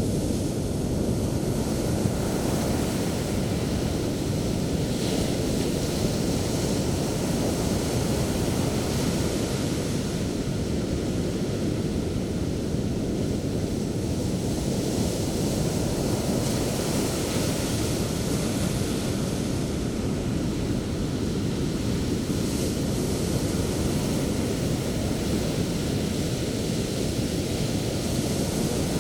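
Sea surf breaking and washing ashore in white foam: a continuous rumbling roar, with louder hissing swells as waves break, several times over.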